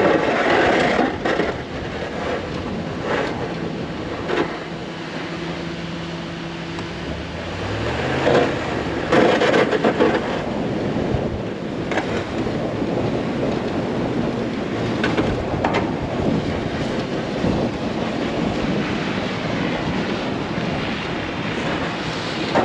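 Half-ton pickup plow truck working snow: its engine runs under a steady rushing noise and revs up about eight seconds in.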